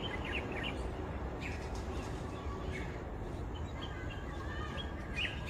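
Wild birds giving short, scattered chirps over steady low background noise.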